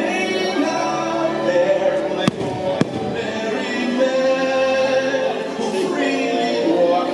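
Fireworks show soundtrack of music with singing, and two sharp firework bangs about half a second apart a little past two seconds in.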